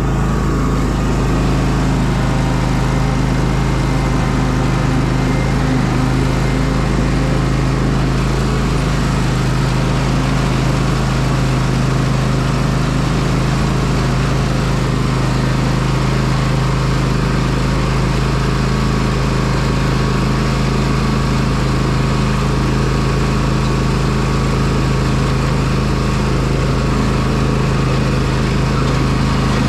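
Small petrol engine of a garden power tool running steadily at one even speed, loud, without being revved.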